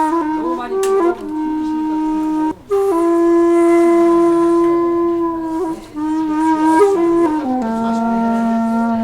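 Background music: a single woodwind, flute-like, playing a slow melody of long held notes that slide into one another, with a short break for breath about two and a half seconds in.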